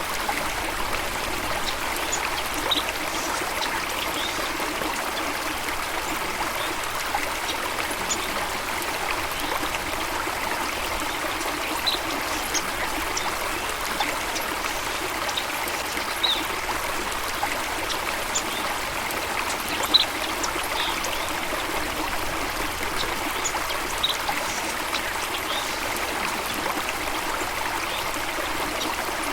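Water running steadily, with a few brief high bird chirps scattered every few seconds; the loudest chirp comes about two-thirds of the way in.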